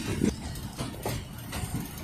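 A passenger train rolling along the track, heard from on board: a steady low rumble with faint, irregular clicks from the wheels on the rails.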